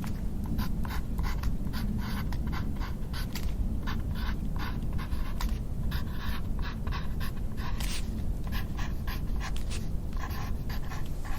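Close-miked ASMR trigger sounds: quick, irregular scratchy strokes, about two or three a second, over a steady low hum.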